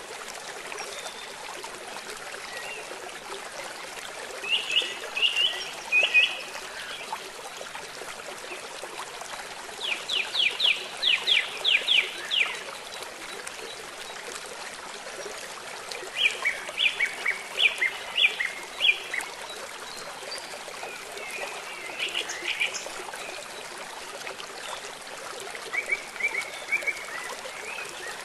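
Songbirds singing short phrases of rapid chirping notes every few seconds over a steady wash of flowing water. The loudest phrase, about ten seconds in, is a quick run of about eight sharp notes.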